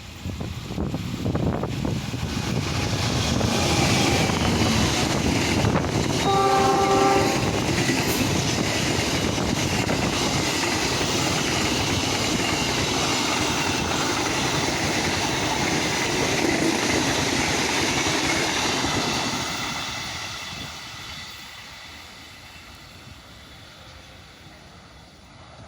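A train passing close by on the line, its wheels rumbling and clacking on the rails, with one short horn blast about six seconds in; the running noise stays loud for about fifteen seconds, then fades away as the train recedes.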